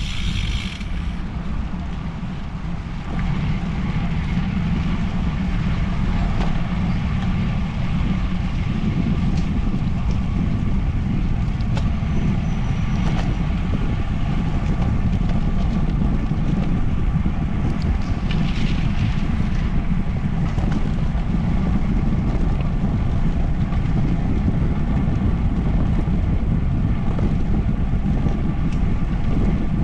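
Wind buffeting the microphone of a camera carried on a moving bicycle while riding, a steady low rumble with no breaks.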